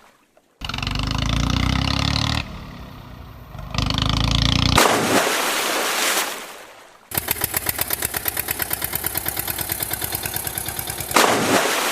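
Tractor engine running, dropping lower for about a second before picking up again, then a rushing whoosh of water. A rapid, even engine chugging of about seven beats a second follows, ending in another rushing whoosh.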